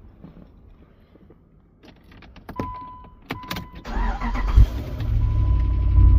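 A few sharp clicks, then the 6.1-litre Hemi V8 cranks and fires about four seconds in and settles into a steady idle.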